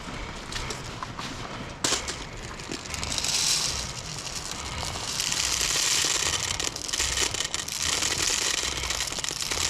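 Airsoft guns firing in scattered sharp cracks, with a steady hiss-like rustle from about three seconds in until near the end.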